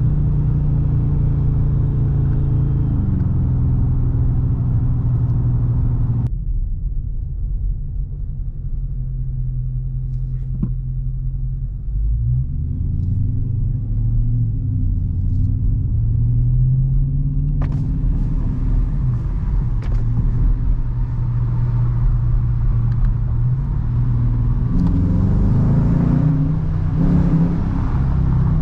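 Dodge Charger R/T's 5.7-litre HEMI V8 running under way with a steady low rumble. Its pitch rises and falls several times as the car accelerates and shifts, most plainly near the end. The higher hiss over the engine drops away suddenly about six seconds in.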